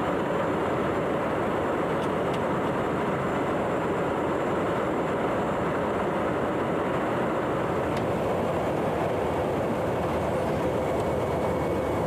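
Dassault Rafale's twin turbofan engines running steadily on the ground, a constant rushing roar with a faint steady whine in it.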